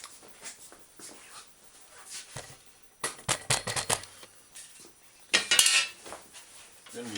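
Metal clattering and clinking as a steel bicycle fender and its parts are handled on a workbench: a quick run of light knocks about three seconds in, then a louder rattling clatter a little after five seconds.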